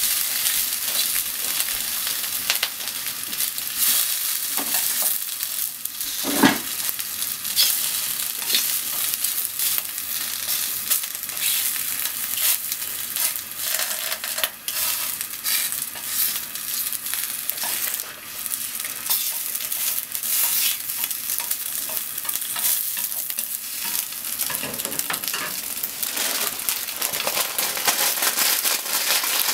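Ham slices sizzling and crackling in a hot oiled frying pan, with small pops throughout as they are turned with chopsticks. A single louder knock comes about six seconds in.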